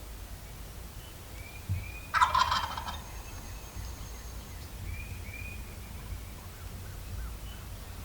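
Wild turkey gobbler gobbling once, a short rapid rattling call about two seconds in.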